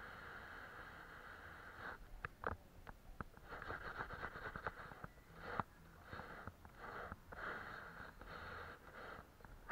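Faint steady hiss, broken from about two seconds in by a series of sharp little clicks and short scraping strokes, loudest a little after two seconds and again mid-way.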